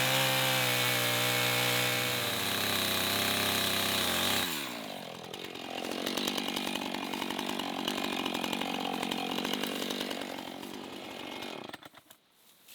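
Chainsaw running steadily at high speed, its pitch falling about four and a half seconds in as the throttle is let off. A rougher, noisier sound follows and stops about a second before the end.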